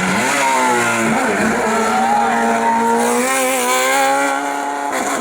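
Race car engine on a hillclimb stage. Its revs drop at first, then climb hard, dip briefly for a gear change about a second in, and then hold high and rise slowly under acceleration.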